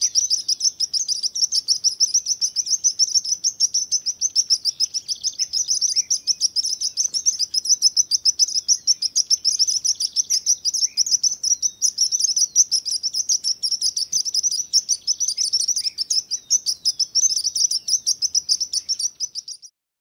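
Sparrow chirping: a rapid, steady run of short high chirps, about five a second, that stops abruptly near the end.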